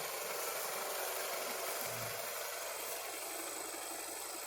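Steady, even running noise of a 1997 Toyota Camry sitting at idle, with no separate clicks standing out.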